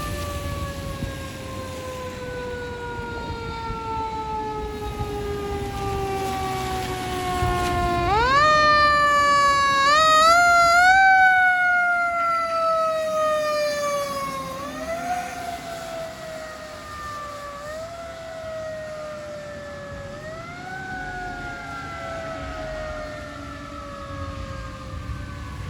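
Fire rescue vehicle's siren wailing while responding on a call. A long falling wail swings sharply up about eight seconds in, wavers quickly and is loudest as it passes, then slides through several slower rising-and-falling wails as it fades.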